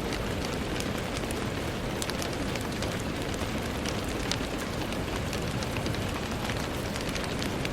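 Steady rain falling, with scattered individual drops ticking against a surface over a dense, even hiss.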